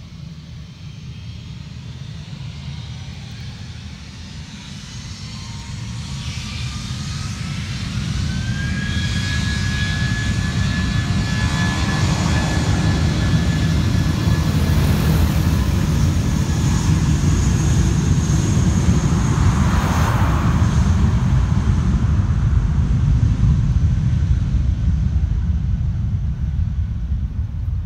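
Scoot airliner's jet engines spooling up for takeoff: a whine rises in pitch over a few seconds and then holds, over a deep rumble that grows much louder and peaks past the middle, easing slightly near the end.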